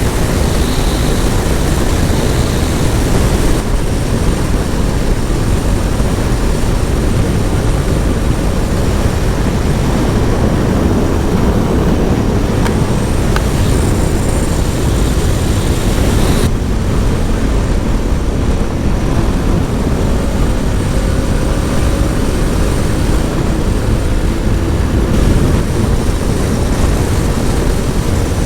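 Motorcycle, a Honda Transalp, cruising at high speed, around 170 km/h: steady wind roar on a helmet-mounted action-camera mic over the engine's drone. The high hiss eases a little just past halfway.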